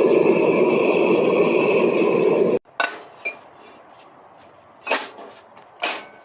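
A loud, steady running noise from the shop's forging equipment cuts off abruptly about two and a half seconds in. Then come several sharp metallic clinks, pieces of forged steel bar knocking against each other and against metal as they are handled.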